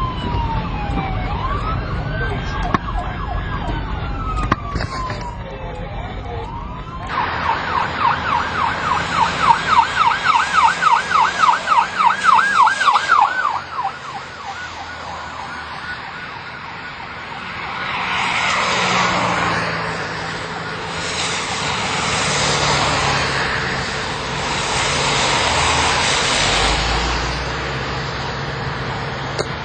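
Police car sirens wailing in slow rising and falling sweeps, more than one at once, then a single siren switching about seven seconds in to a fast yelp of about four warbles a second that cuts off around halfway through. After that come three rushing swells of road noise, vehicles passing one after another.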